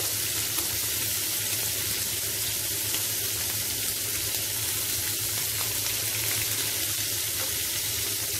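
Masala-coated prawns frying in hot coconut oil in a shallow nonstick pan: a steady, even sizzle.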